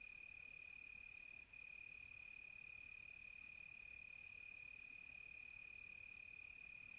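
Faint chorus of crickets trilling at one steady pitch with no breaks.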